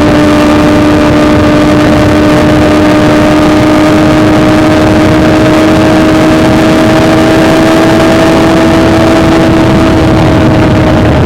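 BMW S1000XR's inline-four engine through an Akrapovic titanium full exhaust, heard onboard while riding at a steady, fairly high engine speed. The note holds almost constant, creeping up slightly in pitch and easing a little near the end, over a steady rushing noise.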